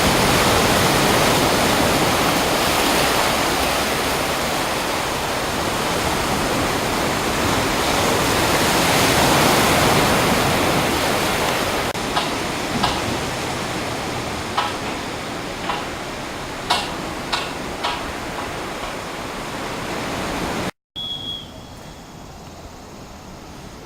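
Sea surf rushing loudly on the shore, with wind on the microphone, and a few sharp clicks about halfway through. After a sudden cut, the same sea and wind sound comes back much quieter.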